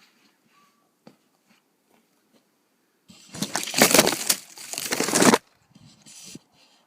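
A loud rustling, crunching noise lasting about two seconds, followed by a couple of softer rustles.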